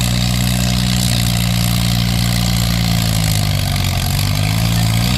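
Antique farm tractor engine running hard under load, pulling a weighted sled. Its pitch holds steady, then sags gradually over the last two seconds as the engine lugs down.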